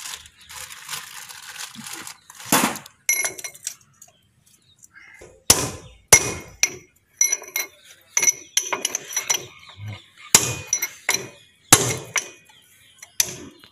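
Irregular metal-on-metal strikes and clinks on a JCB front wheel hub, some ringing briefly, as parts are tapped and worked into place while the hub's bush and seal are being fitted.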